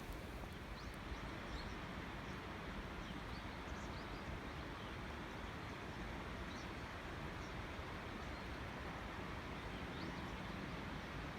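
Outdoor ambience: a steady, even background rush with short, faint high bird chirps scattered through it.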